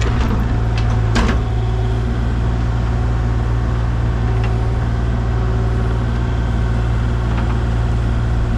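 A machine's engine running steadily with a low drone, with a few sharp clanks in the first second or so.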